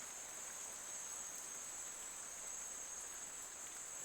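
Rainforest ambience: a steady, high-pitched chorus of insects over a soft, even hiss of light rain.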